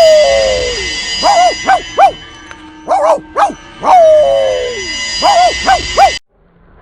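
A dog's short yelping barks and a long falling whine, the same pattern repeating about every three seconds like a loop, over steady high tones. It cuts off suddenly about six seconds in.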